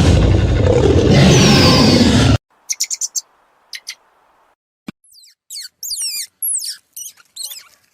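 A loud, harsh, noisy animal sound with a deep low rumble for about two seconds, cut off abruptly, followed by a quick run of short high clicks and then a string of high bird chirps and whistles, many sliding downward in pitch.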